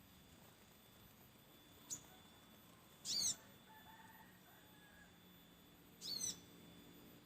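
Small bird, known locally as sogok ontong, giving two short, high, rapid chittering calls about three seconds apart, with a faint single tick about two seconds in.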